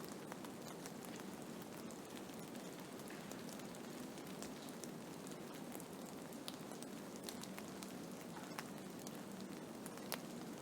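Snowstorm ambience: a steady hiss with many small, irregular ticks scattered through it.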